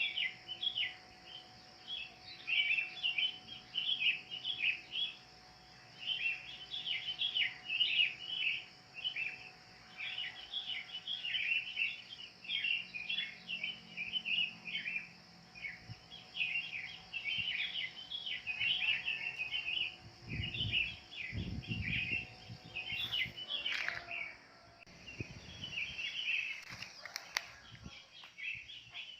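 Wild birds chirping in rapid clusters of short notes, one cluster after another, over a steady high hiss.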